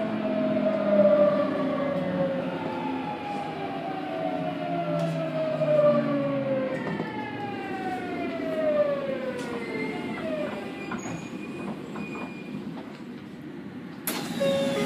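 Tokyu 9000 series Hitachi GTO-VVVF inverter and traction motors whining in several tones that fall steadily in pitch as the train slows, over the rumble of the bogie. The bogie is running without any abnormal noise. A sudden loud hiss starts near the end.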